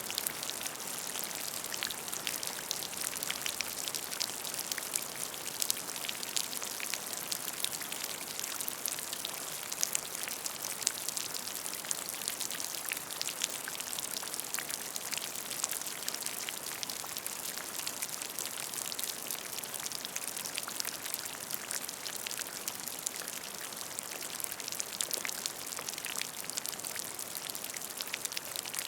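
Steady rain falling on a puddle, a continuous hiss dotted with many small drop splashes and patters.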